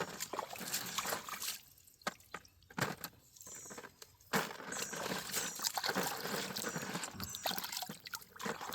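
Water pouring and trickling, with small stones clicking against each other, as gravel and mud are sifted in shallow creek water. It comes in uneven spurts at first, with two quieter gaps, and runs more steadily from about halfway on.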